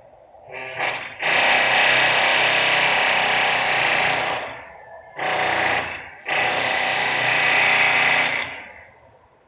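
Loud power-tool-like machinery noise from an industrial site, coming in four bursts of about one to three seconds with short breaks between them.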